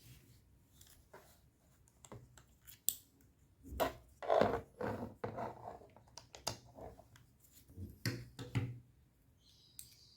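Scattered small clicks, taps and scraping of hands handling a laptop's plastic case and tools, with a denser run of scraping about four seconds in and two knocks near the end.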